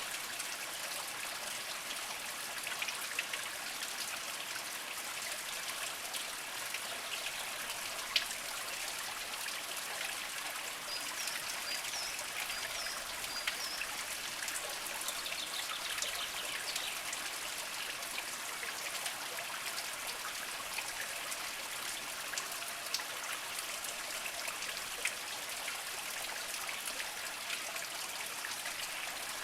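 Small mountain spring trickling steadily over mossy rocks, with scattered drip-like plinks in the flow.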